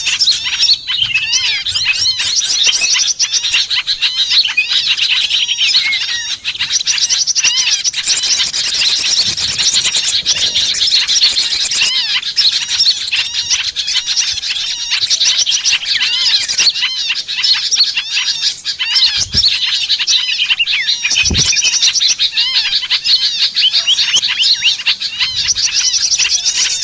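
A dense chorus of many small songbirds chirping and twittering, high and continuous, with bursts of rapid trills over the top, typical of a bird-lure call recording.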